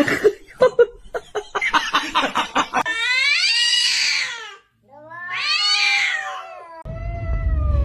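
A cat giving two long, drawn-out meows, each rising and then falling in pitch, after a run of short quick sounds. A low rumbling noise comes in near the end.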